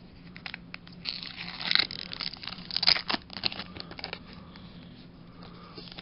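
Foil booster-pack wrapper crinkling and tearing open, a run of crackles and rustles loudest about two and three seconds in, then quieter handling.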